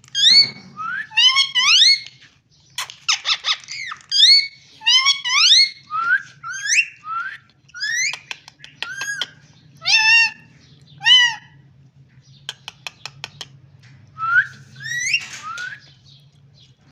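A pet parrot whistling and squawking: a string of short, rising whistled calls, some of them sharp squawks. A rapid run of clicks comes about twelve seconds in.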